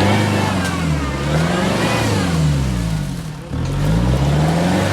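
Off-road SUV engine revving up and down over and over, its pitch rising and falling about every second and a half, with a brief drop about three and a half seconds in. Typical of a 4x4 being driven hard through deep mud ruts.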